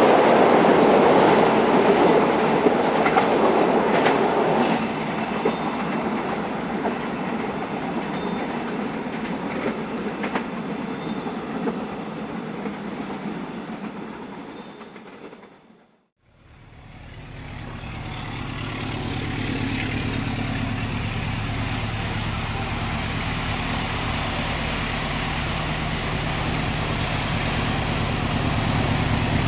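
Train passing on the rails, its noise dying away about halfway through. After a short gap, the steady low hum of an approaching diesel locomotive grows louder.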